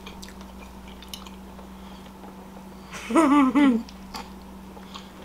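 Faint chewing and small mouth clicks of people eating fast food, over a steady low hum. About three seconds in, a short two-part vocal sound, pitched and arching up then down, stands out as the loudest thing.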